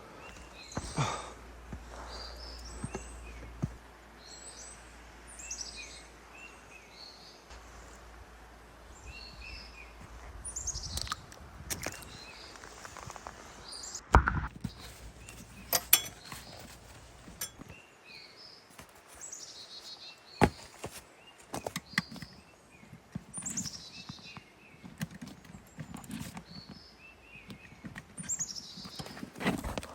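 Birds singing, a short falling chirping phrase repeated every couple of seconds, with a few sharp knocks or clicks in between, the loudest about halfway through.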